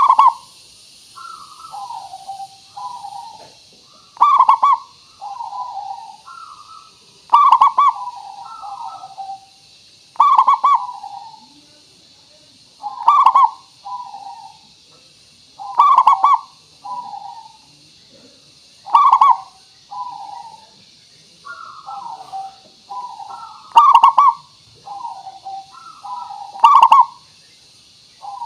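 Zebra dove (perkutut) cooing its song over and over: a phrase of soft, lower coos and one loud, clear note, repeated about every three seconds. A steady high hiss runs behind it.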